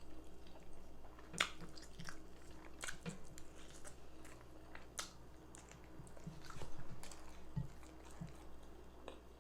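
Close-up mouth sounds of a person chewing baked chicken: wet smacking and irregular sharp clicks of chewing.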